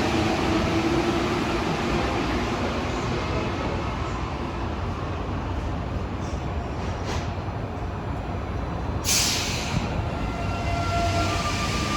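Alstom rubber-tyred metro train at a station platform: a steady rumble, with the motor tones fading in the first second. About nine seconds in there is a short, sharp hiss of air, like an air brake releasing. Near the end, rising motor tones come in as a train moves.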